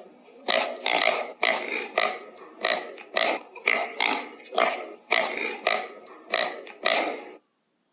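An animal calling in a quick, regular series of short calls, about two a second, which stop shortly before the end.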